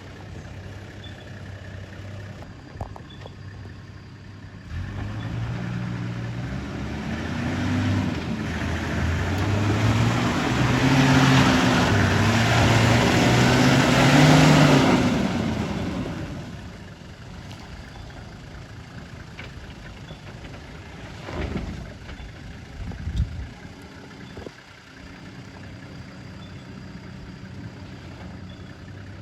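Landcruiser 4WD engine idling, then revving for about ten seconds with the revs rising and falling as the truck works over an obstacle, before settling back to idle. Two knocks follow a few seconds later.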